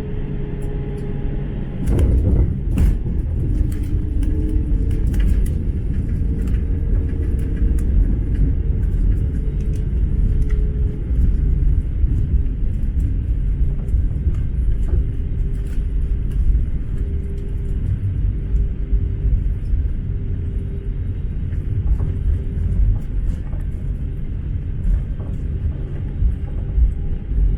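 Airbus A321 cabin noise on landing: a sudden knock about two seconds in, then a heavy steady rumble of the wheels rolling on the runway with a faint engine hum.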